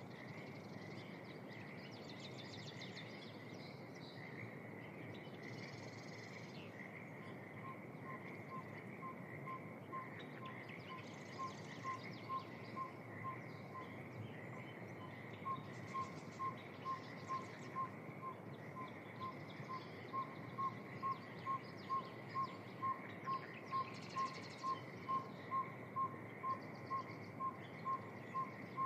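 Spring evening wetland chorus: a steady pulsing chorus of calls, scattered bird song above it, and a regular series of short single-pitched toots at about two a second that grows louder from about halfway through.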